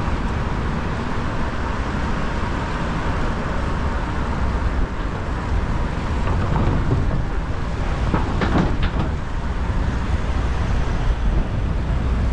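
City street traffic heard from a moving bicycle, with a steady low rumble and hiss of wind and road noise. A vehicle passes more loudly between about six and nine seconds in.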